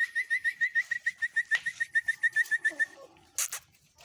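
A bird calling a fast, even run of short, high, piping notes, about six a second, for about three seconds. A brief hissing burst follows near the end.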